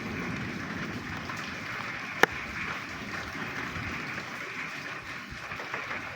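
A dense chorus of frogs calling together in the rain, forming a steady mass of sound, with rain falling. One sharp click about two seconds in.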